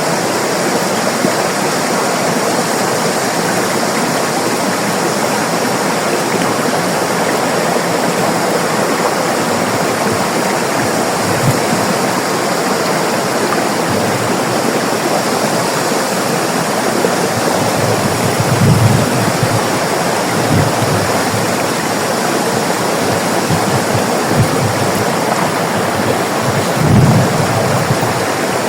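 River water rushing steadily over rocks, a continuous loud wash, with a few brief low thumps in the second half, the strongest about two-thirds of the way through and near the end.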